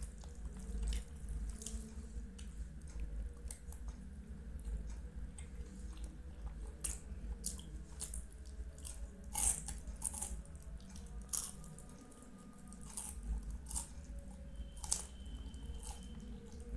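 Close-up chewing and biting of soft, syrupy Indian sweets: wet mouth clicks and smacks at an irregular pace, a few louder ones about nine seconds in and near the end.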